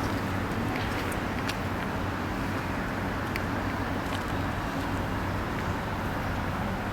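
2007 Maserati Quattroporte's V8 engine idling steadily, a low even exhaust hum.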